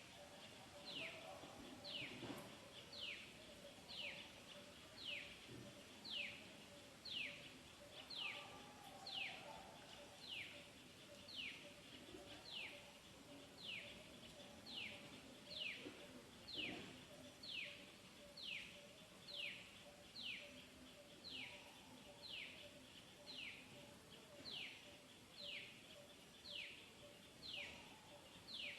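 A bird repeating one short down-slurred call over and over, about three notes every two seconds, steady throughout, with a faint low steady tone underneath.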